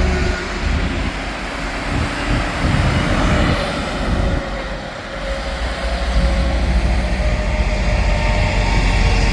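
Interstate highway traffic with semi-trucks passing: steady tyre noise and engine drone with a deep rumble, easing off briefly and then swelling louder about six seconds in as another vehicle approaches.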